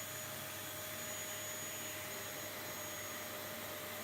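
Kenwood Xtreme Cyclone cyclonic vacuum cleaner running steadily, a rush of air with a faint steady whine over it, turned down in the recording.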